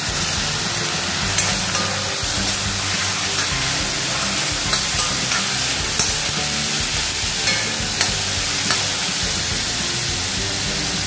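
Onions, dried red chillies and fresh tomato pieces sizzling in hot oil in an iron kadai. A steel spatula stirs them and clicks and scrapes against the pan several times.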